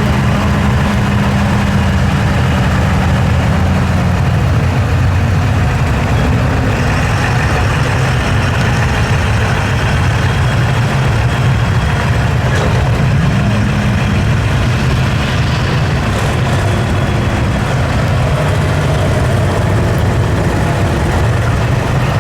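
Heavy truck engine running steadily at low revs, its pitch briefly rising and falling about halfway through.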